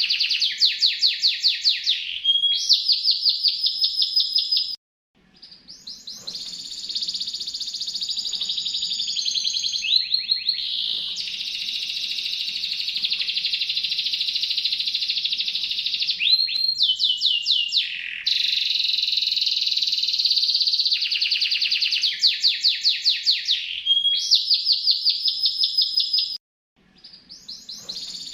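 Domestic canary singing a long, continuous song of fast trills and rolls, each a quick run of repeated high notes, one after another. The song cuts out suddenly twice, about five seconds in and near the end, then fades back in.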